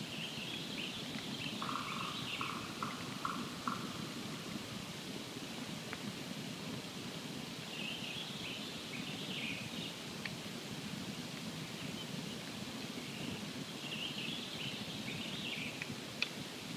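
Campfire crackling, with a few sharp pops over a steady hiss. A songbird sings a short, high phrase three times, about six seconds apart, and early on a run of five quick, lower notes is heard.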